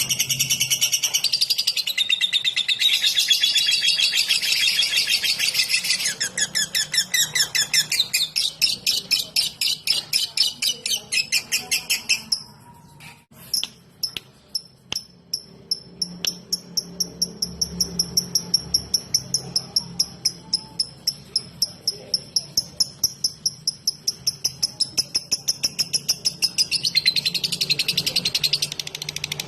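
Lovebird singing in the rapid 'ngetik' ticking style: long runs of quick, even chirps, several a second, between bursts of dense high twittering at the start and near the end, with a short break about halfway through.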